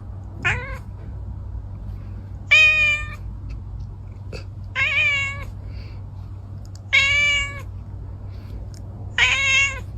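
A cat meowing five times, about every two seconds. The first meow is short and the others are longer, drawn-out calls.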